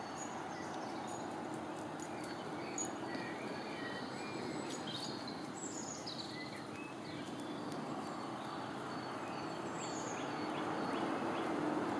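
Small birds chirping, with quick high gliding calls scattered through, over a steady background hum.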